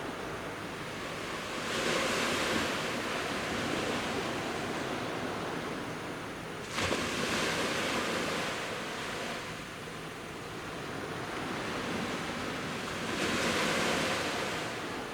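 Sea waves breaking on a beach, swelling three times: one about two seconds in, one arriving suddenly about seven seconds in, and one near the end, with a steady wash of surf between them.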